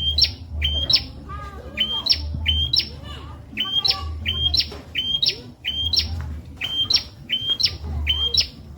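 Prenjak (prinia) calling: sharp, high chirps, mostly in quick pairs repeated about once a second, each jumping abruptly upward in pitch. Fainter lower bird chirps and a low intermittent rumble run underneath.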